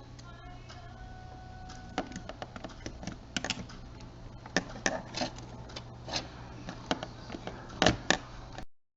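Irregular small clicks and taps of plastic parts of a JVC Everio camcorder being handled and fitted during reassembly, over a steady low hum. The clicks come a few times a second, the loudest near the end, and the sound cuts off abruptly shortly before the end.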